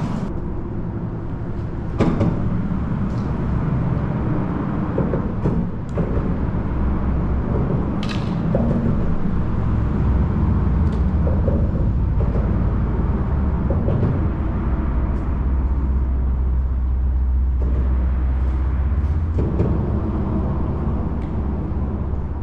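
Steady low rumble of traffic crossing a road bridge, heaviest for several seconds in the second half as a larger vehicle passes, with a few sharp knocks.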